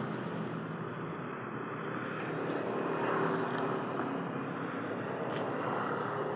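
A vehicle engine running steadily, with a faint click about five seconds in.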